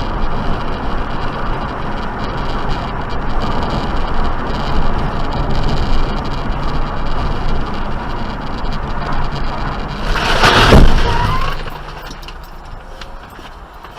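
Steady road and engine noise from a moving car. About ten seconds in comes a loud sudden collision noise lasting about a second, and then the noise drops to a lower level.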